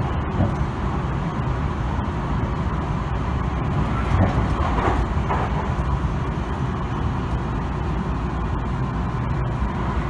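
Tobu Tojo Line express train running at speed, heard from inside the passenger car: a steady rumble of wheels on rail, a little louder about halfway through.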